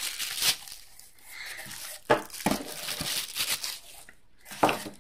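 Packaging rustling and crinkling as miniature terrain pieces are unpacked by hand, with a few sharp knocks of the pieces being handled.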